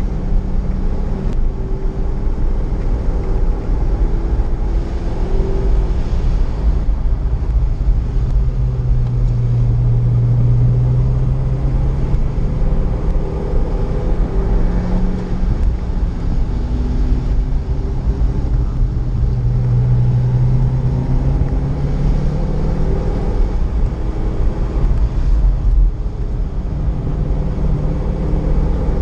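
Corvette Z06's V8 engine under load on track, heard from inside the driver's helmet over a heavy low rumble, its pitch rising and falling several times as the car accelerates and slows.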